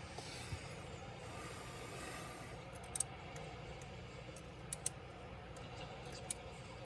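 Handling of small parts and tools during a laptop teardown: a soft scraping for the first couple of seconds, then several sharp small clicks and taps.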